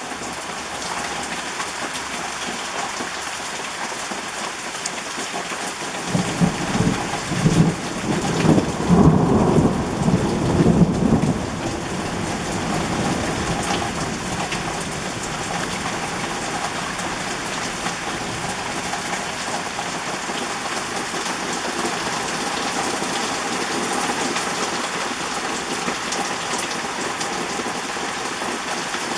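Torrential rain pouring steadily, with a roll of thunder rumbling in about six seconds in and fading out after about twelve.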